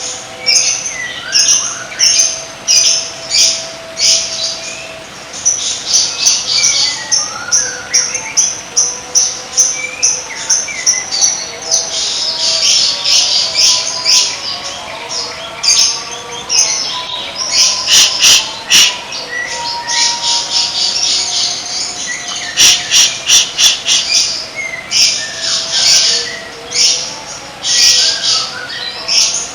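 Songbird song from a masteran training recording: loud, rapid bursts of high chattering notes and trills, with now and then a falling whistle and some held lower tones.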